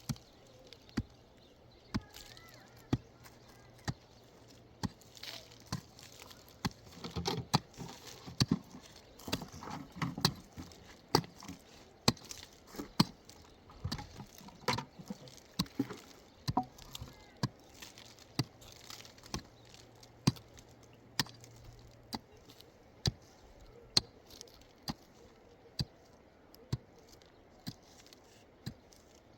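Sharp knocks repeating about once a second, with a busier stretch of quicker knocks and clatter about a third of the way in.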